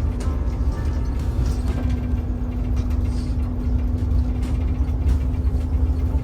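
Shuttle bus heard from inside the cabin: steady low engine and road rumble with a constant hum.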